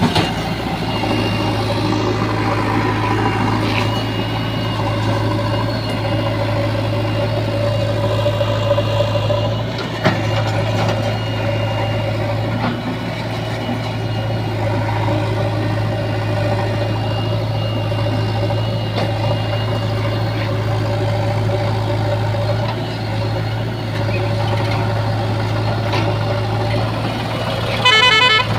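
Heavy diesel engine of earth-moving machinery running steadily. Near the end comes a short, loud, rapidly pulsing beep.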